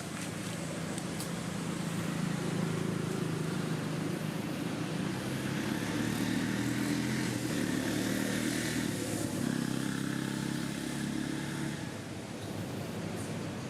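A motor vehicle engine running steadily, getting louder about two seconds in and dropping back near the end.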